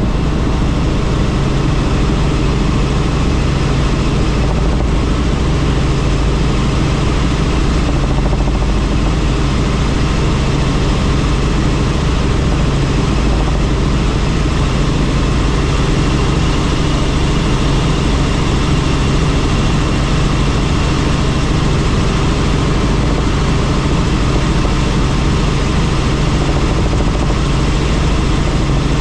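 Helicopter turbine and rotor noise, a steady loud drone with a low hum.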